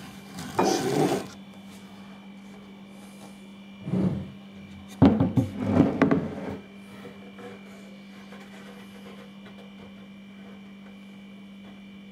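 Homemade solar water heater panel being handled and set down on a table: a few short spells of knocking and scraping, about half a second in, around four seconds, and the loudest between five and six and a half seconds, over a steady background hum.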